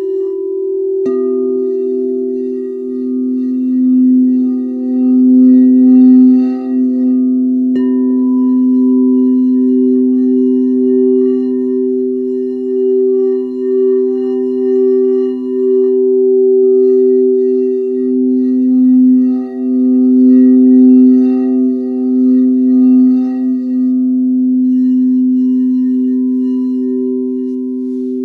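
Singing bowls ringing, two sustained tones, one lower and one higher, wavering and swelling in loudness. A bowl is struck about a second in and again near eight seconds, each strike adding bright overtones that ring on.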